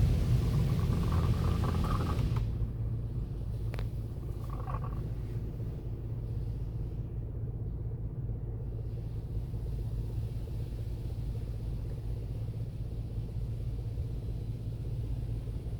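Steady low machine rumble and hum in an automatic car wash bay, with a louder rushing noise fading out over the first two seconds or so and a single sharp click about four seconds in.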